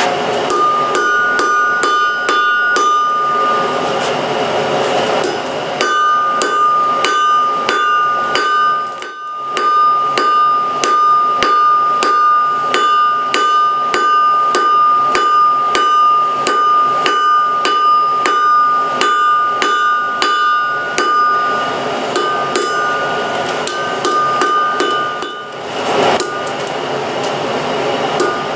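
Hand hammer striking hot steel on an anvil in a steady run of blows, about three a second, each with a bright metallic ring, broken by two short pauses.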